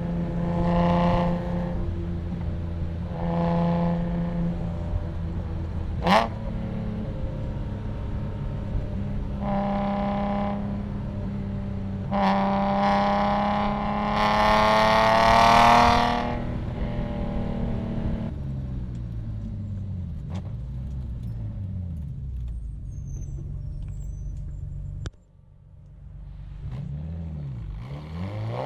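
BMW E46 M3's S54 straight-six driven hard, heard through Euro headers and a Status Gruppe V1 muffler: engine note swelling with short throttle pulls, then a long pull rising in pitch about halfway through. After that the revs fall away for several seconds with light crackling, the sound cuts off sharply, and the revs climb again near the end. A single sharp crack sounds about six seconds in.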